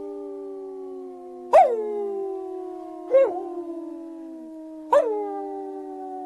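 A pack of wolves howling in chorus: several long, slowly falling howls overlap, and new voices break in about one and a half, three and five seconds in, each rising sharply before it settles into a held tone.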